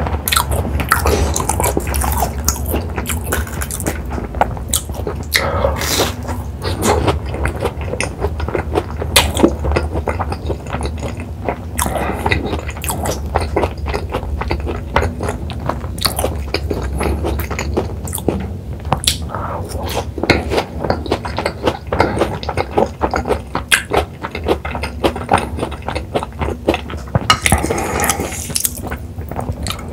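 A person chewing a crisp breaded cheese pork cutlet with the mouth close to the microphone: many quick crunches of the fried crust mixed with wet, sticky chewing sounds.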